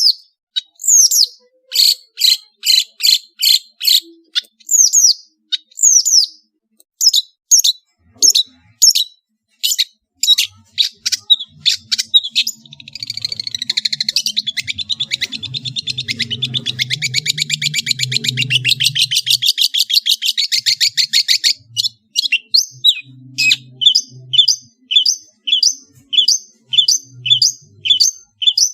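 Long-tailed shrike (cendet) singing loudly: series of sharp repeated notes, then a very fast chattering trill about thirteen seconds in that lasts around eight seconds, then a steady run of short repeated notes.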